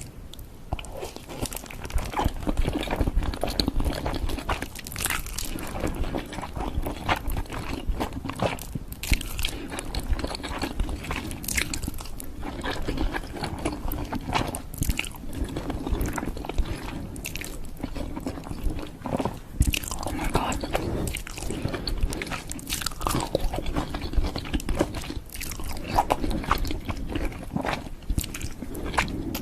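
A person chewing curry noodles with cheese: a dense, irregular run of wet mouth clicks and smacks.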